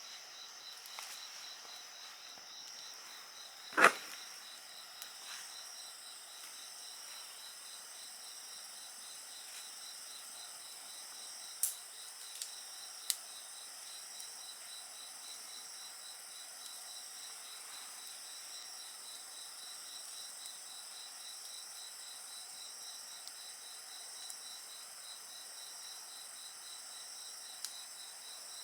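A steady chorus of night insects with a fast pulsing trill, over a burning wood fire. The fire gives one loud pop about four seconds in and a few smaller sharp crackles later.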